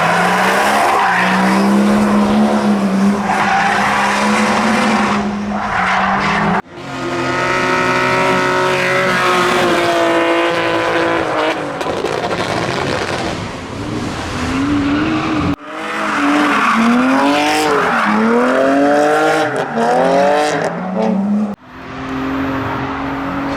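Drift cars with engines at high revs and tyres squealing as they slide. The engine pitch is held and then rises and falls several times in quick succession as the throttle is worked. The sound breaks off abruptly three times where shots change.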